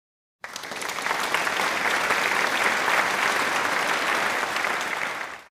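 Applause: a crowd clapping densely, starting abruptly and cutting off sharply after about five seconds.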